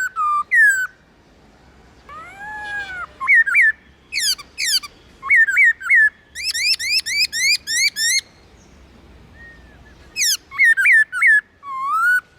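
Black-throated laughingthrush singing: loud, clear whistled notes that slur up or down, delivered in quick runs of several notes, with a couple of short pauses between phrases.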